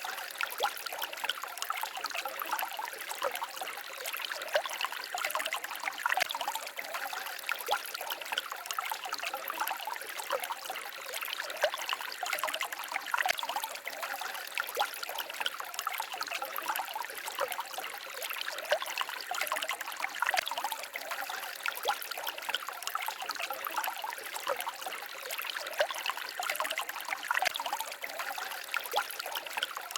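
Small forest stream babbling and trickling steadily, water splashing over stones in many small quick flickers, with little low rumble.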